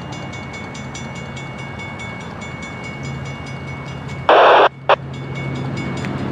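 Amtrak P42DC diesel locomotives standing with a steady hum and a regular repeating ring. A little over four seconds in there is a loud, sudden burst of noise lasting under half a second, followed by a second very brief one.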